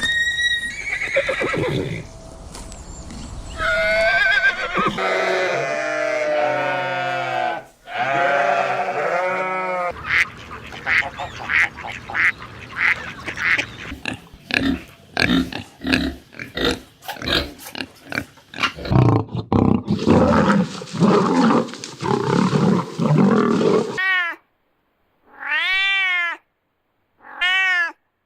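A series of farm animal calls from several different animals in turn: long wavering calls, then a quick run of short calls about two a second, then a few short arched calls separated by silence near the end.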